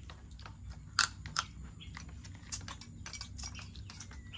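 A person chewing and crunching food: a run of short, irregular crunchy clicks, the loudest about a second in and another just after.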